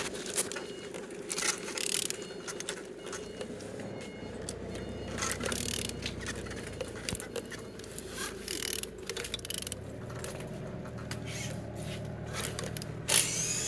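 A removed PSA 1.6 HDi diesel engine (DV6DTED) being turned over by hand, with irregular scraping and clicking from the tool and the rotating engine. It turns freely, a sign the engine is not seized.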